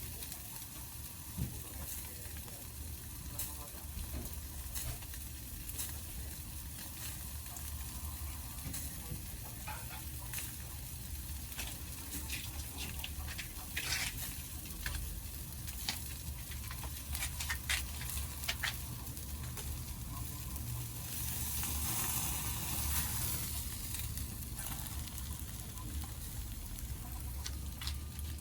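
Pacific saury sizzling as it grills over a wood campfire, with scattered crackles and pops from the fire. A louder hiss swells for a couple of seconds about three-quarters of the way through.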